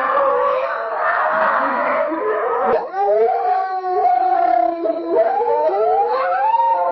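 Wolves howling in chorus: several long, overlapping howls at different pitches, rising and falling. There is a brief break about three seconds in, where one recording gives way to another.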